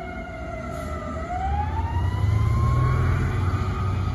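Fire engine siren sounding a slow wail: its pitch falls for about a second, then climbs steadily again. Under it the truck's engine rumbles low, growing louder partway through as the apparatus pulls away.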